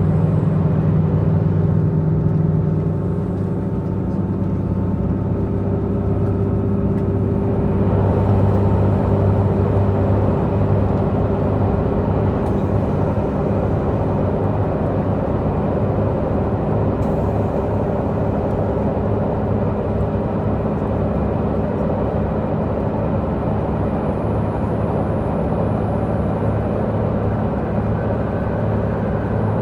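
Diesel engine of a Tze-Chiang diesel multiple unit running under way, heard from inside the passenger car: a steady low engine hum over wheel-and-rail rumble. About eight seconds in, the rumble grows fuller and stays so.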